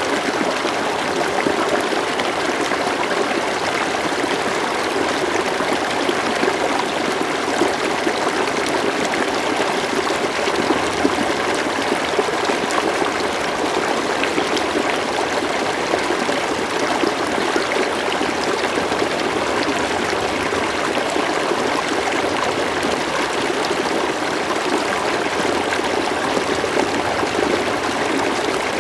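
River water flowing steadily over a shallow bed, a constant rushing babble with fine trickling detail.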